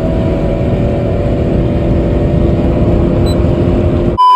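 Steady road and engine noise inside a moving car's cabin. Near the end a short, loud electronic beep cuts in with everything else dropped out: a censor bleep.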